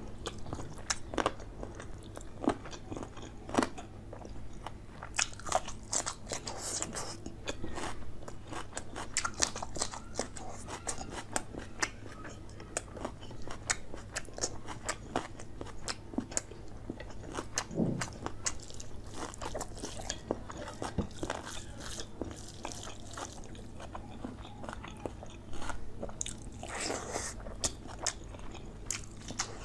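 Close-miked eating sounds of chicken leg curry with rice eaten by hand: chewing and biting, with many short wet clicks and crunches scattered throughout, over a faint steady low hum.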